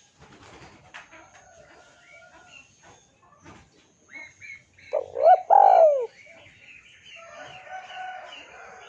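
Spotted dove (tekukur) calls: two loud coo notes that fall in pitch, about five seconds in, with other small birds chirping faintly around them.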